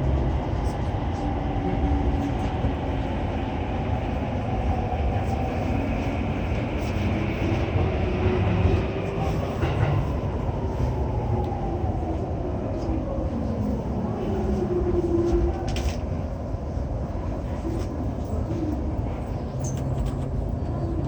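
JR East E231-800 series commuter train running, heard from inside the car, with the traction motor and inverter whine falling in pitch as it brakes toward its stop.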